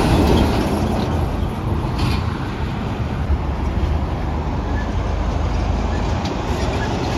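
Heavy truck running, a steady low rumble of engine and road noise.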